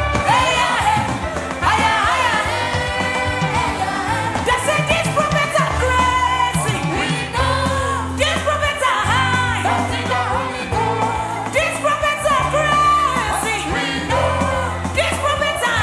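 Worship song: voices singing over instrumental backing with held bass notes.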